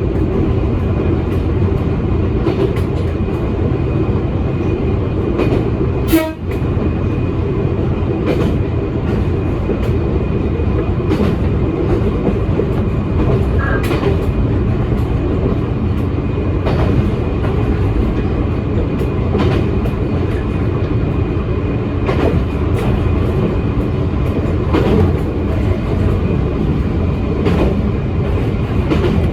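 Electric train running along the line, heard from the front of the car: a steady rumble of wheels and motors with light rail-joint clicks. A single sharp bang about six seconds in.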